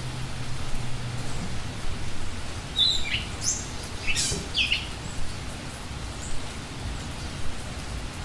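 Small birds chirping, a handful of quick high calls in the middle, over a steady low outdoor rumble.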